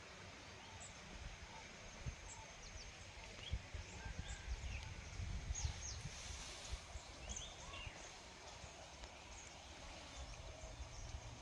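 Faint outdoor ambience: scattered short, high, falling bird chirps, busiest in the middle, over an uneven low rumble.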